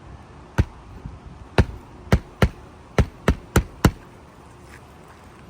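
Hammer driving a roofing nail through an asphalt shingle: eight sharp strikes, spaced about a second apart at first and then coming faster, ending about four seconds in.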